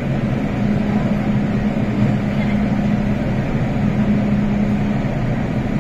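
Steady machine hum and rumble from an MTR Island Line M-Train standing at a platform. A low hum fades for about a second midway, then returns.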